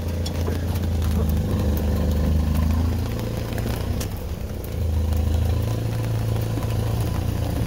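Mahindra Roxor's 2.5-litre turbodiesel engine running with an aftermarket exhaust as the Jeep-like utility vehicle creeps along a muddy trail. The engine note steps up in pitch about three seconds in and gets louder about five seconds in.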